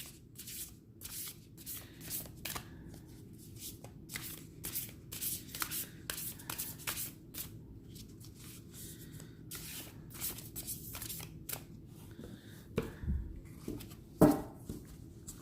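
A deck of oracle cards being shuffled by hand: a steady run of soft card flicks and rustles, with a few louder taps near the end.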